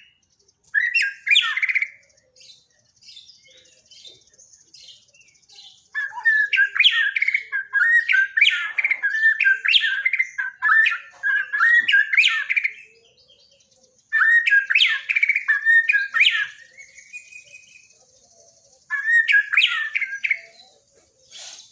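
Borneo white-rumped shama (murai batu) singing: four bursts of rapid, varied phrases with sweeping whistled notes and harsh notes, separated by short pauses. A faint steady high hiss runs behind the song.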